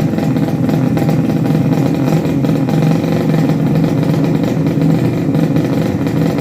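Racing motorcycle engines running loudly and steadily, a continuous mid-pitched engine note without clear revs up or down.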